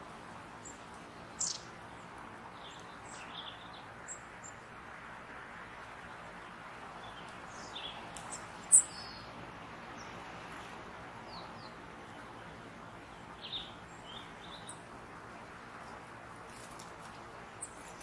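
Small woodland birds giving scattered short, high chirps and call notes over a steady background hiss. One note about nine seconds in is sharper and louder than the rest.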